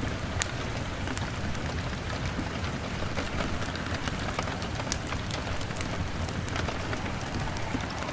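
Steady rain on a window mixed with a crackling log fire: an even hiss with a low rumble underneath and a scatter of sharp little clicks and pops.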